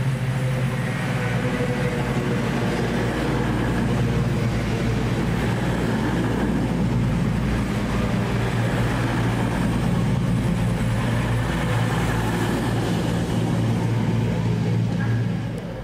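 A train running past on the railway line, a loud steady rumble that drops off sharply near the end.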